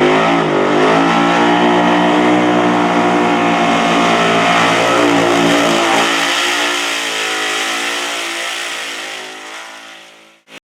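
Burnout car's engine revving hard and held at high revs, its pitch wavering up and down, then fading out over the last few seconds.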